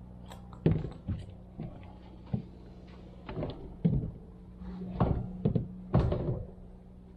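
A series of hollow knocks and thuds on a plastic kayak, about seven of them at uneven intervals, over a faint steady low hum.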